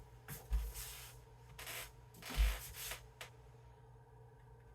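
Kitchen handling noises: a few short scrapes or rubs, two with a soft knock, then quiet.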